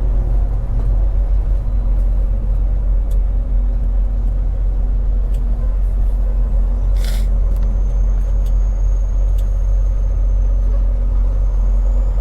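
Semi truck running at road speed, heard inside the cab: a steady low drone of diesel engine and road noise. A brief hiss about seven seconds in.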